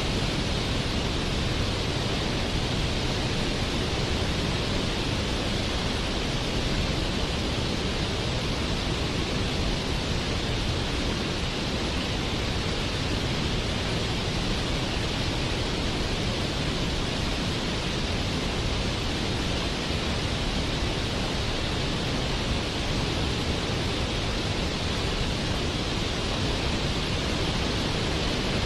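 Waterfall, a steady unbroken rush of falling water with its energy spread evenly from low to high.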